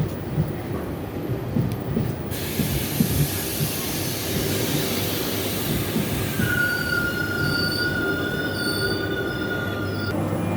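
Train moving at a station platform: a low rumble, then a hiss that sets in about two seconds in. About halfway through a steady high-pitched squeal from the train joins it and cuts off suddenly just before the end.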